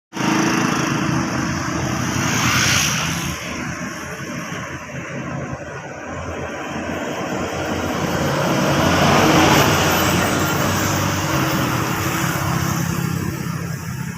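Road traffic: heavy trucks' diesel engines running low and steady as they pass close by, loudest about two and a half seconds in and again near ten seconds.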